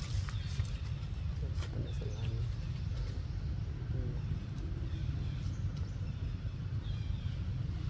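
Steady low rumble with scattered sharp clicks, faint high chirps and a few short animal calls.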